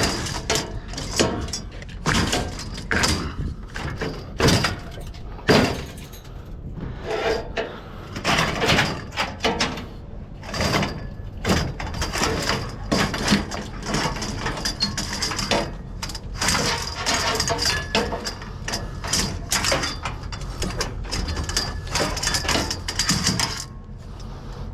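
Objects being handled and shifted by hand: irregular knocks, clatter and rustling, over a steady low rumble.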